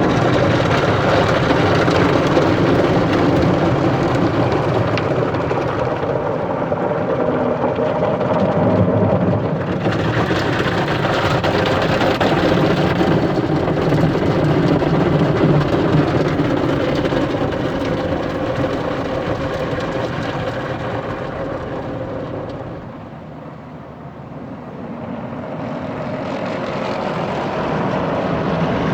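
Car wash running: a steady noise of water spray and machinery with a low hum. It fades away about twenty-three seconds in, then builds again.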